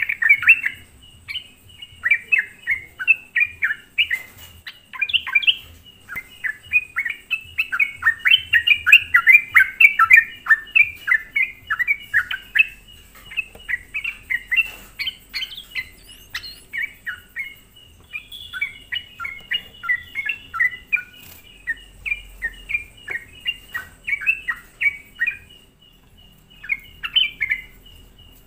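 Yellow-vented bulbul (trucukan) singing a lively lure song: rapid runs of short bubbly chirping phrases with brief pauses between them.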